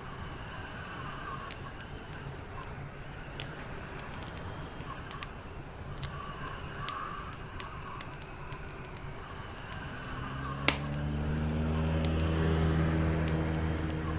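Crackling fire with scattered small pops and one sharp pop about ten seconds in. Under it, the steady hum of an approaching vehicle engine swells up over the last few seconds: rescuers arriving.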